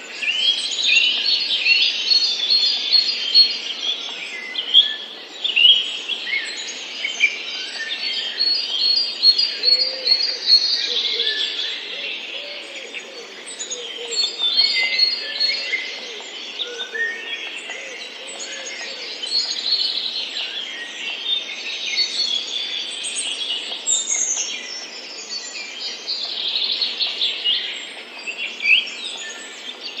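Several songbirds chirping and singing at once, a dense overlapping chorus of quick chirps, trills and short sweeping calls, with a lower, wavering call underneath through the middle.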